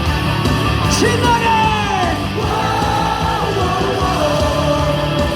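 Loud rock-style cheering music over a ballpark's PA. About a second in, an amplified voice draws out a falling shout of "신나게", with a crowd singing and yelling along.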